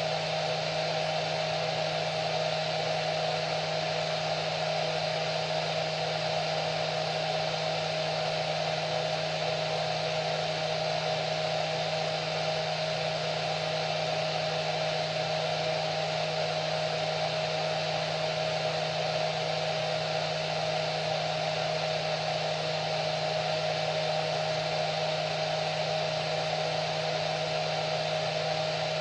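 Hair dryer running steadily: an even rushing of air with a constant motor whine, unchanging throughout.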